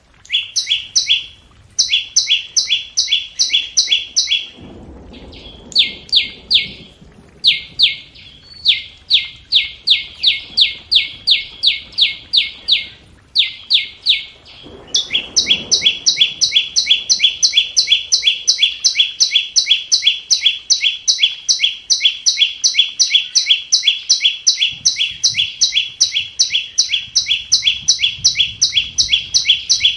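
Scarlet-backed flowerpecker calling: rapid, sharp, high-pitched ticking notes, about three to four a second, each a quick downward slur. The notes come in short runs broken by brief pauses, then go on unbroken from about halfway through. It is a decoy call of the kind used to lure wild birds.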